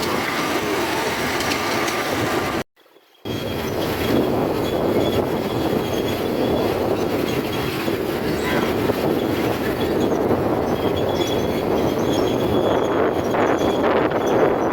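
Miniature railway train running along the track, a steady rolling rail noise, broken by a brief cut to near silence about three seconds in.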